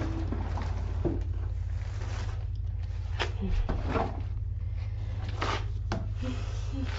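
Shop vac running steadily while it vacuums debris out of a car interior, with short knocks and scrapes from the hose nozzle against the seat area.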